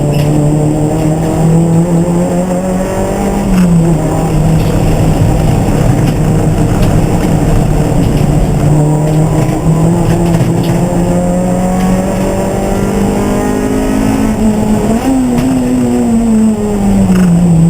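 Racing car engine running hard at race pace, its pitch climbing slowly for long stretches. The pitch drops sharply about three and a half seconds in, then jumps up near the end and falls away again, as with gear changes and lifting.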